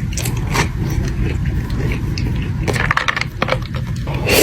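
Close-up eating sounds: biting into and chewing a chocolate Crumbl cookie, an irregular run of crackly, crunchy clicks, over a steady low hum.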